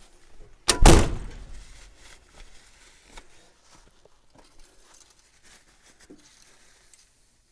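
A single heavy thunk on the big truck's metal about a second in, ringing briefly as it fades, followed by a few light knocks and rustles.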